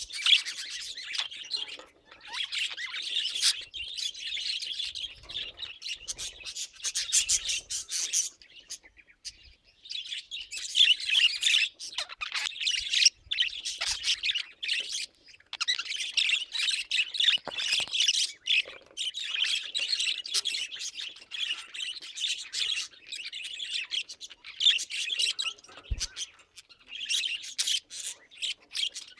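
Pet budgerigars chattering and warbling: a busy run of rapid chirps, clicks and squawks, with short breaks about two seconds in and again around nine seconds in.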